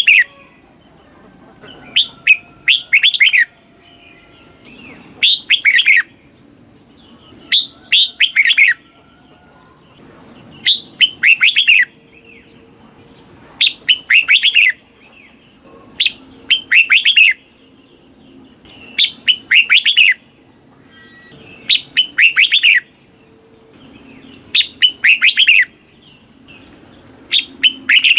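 Red-whiskered bulbul singing, repeating the same short, loud phrase of quick notes about every three seconds, each phrase made of two close bursts.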